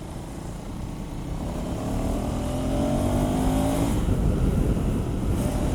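KTM 390 Adventure's single-cylinder engine pulling under throttle, getting louder, its pitch climbing steadily for a couple of seconds before breaking off about four seconds in.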